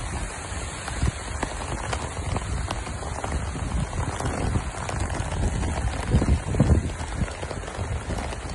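Rain falling on a wet paved street: a steady hiss with many small drop ticks. A couple of low thuds come about six and a half seconds in.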